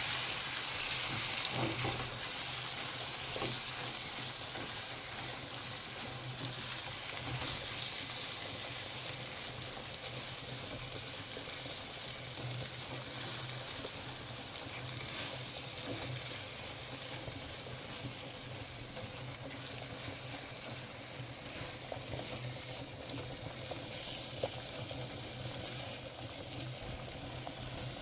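Food sizzling steadily in a hot frying pan, a continuous hiss with scattered small crackles and one sharp tick near the end.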